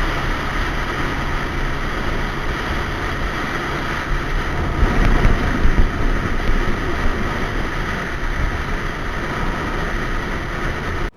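Motorcycle on the move: steady wind rush on the camera microphone, with the engine running low underneath. It cuts off abruptly at the end.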